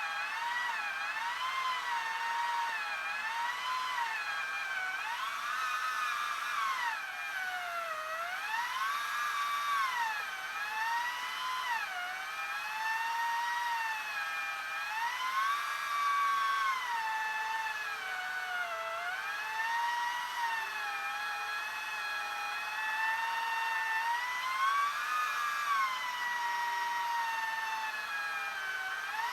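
Chainsaw running and cutting through logs, its pitch dropping and rising again every second or two as the chain loads up in the wood and frees.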